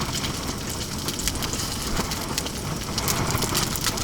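Salmon frying in oil in a pan, sizzling steadily with many small crackling pops, over a low rumble of wind.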